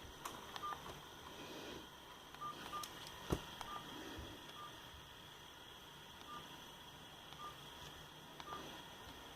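Faint short key beeps from an NGM Raptor mobile phone, one pitch repeated about eight times at uneven intervals as its keys are pressed, with a sharp click about three seconds in, over a steady low hiss.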